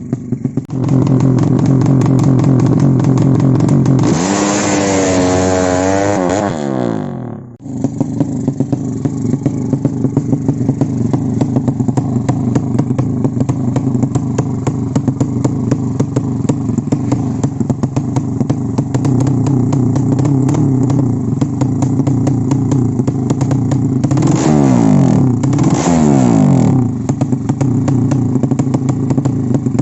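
Tuned motorcycle racing engine idling with a rough, rapid ticking beat. It is revved hard about four seconds in, the pitch wavering as it climbs, then drops sharply. It is blipped twice more near the end.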